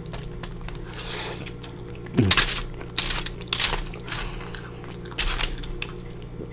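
Close-up chewing and mouth smacking of a person eating cheese- and sauce-covered fries, with about four loud smacks in the middle of the stretch. A steady low hum runs underneath.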